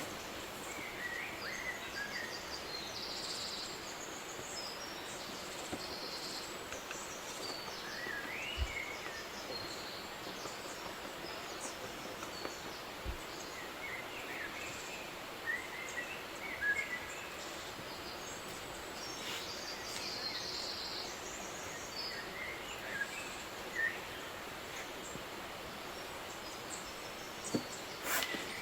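Forest ambience: a steady background hiss with small birds chirping now and then, a few higher, buzzy trills mixed in. A few sharp clicks come near the end.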